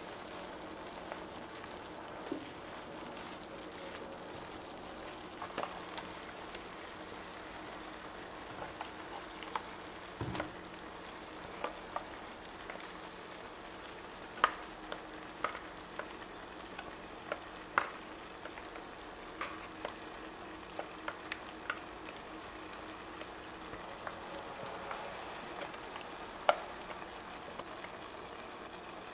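Kale sizzling steadily in a pan, with scattered light clicks and scrapes of a wooden spatula and a spoon against an enamelled cast-iron pot, and a soft thump about a third of the way through.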